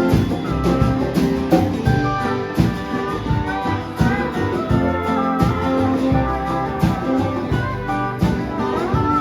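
A live band playing, with guitar to the fore over bass and steady drum hits.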